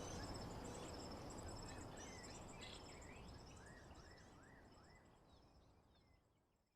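Nature ambience of insects trilling in fast pulsed high chirps, with a few short bird chirps and a low background hiss, fading out steadily to silence near the end.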